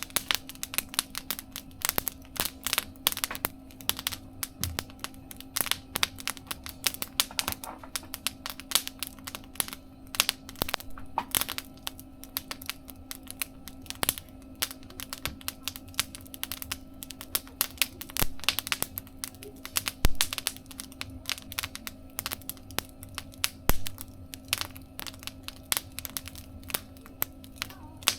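Wood fire crackling and popping in a mesh fire-pit stove, with sharp irregular snaps coming several times a second, over a steady low hum.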